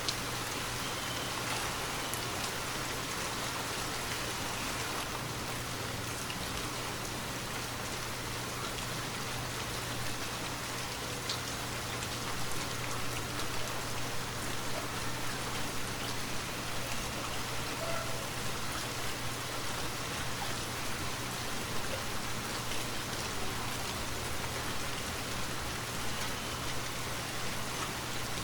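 Steady rainfall: a continuous hiss of rain falling on leaves and surfaces, with a steady low rumble underneath. It grows a little heavier and more uneven about twelve seconds in.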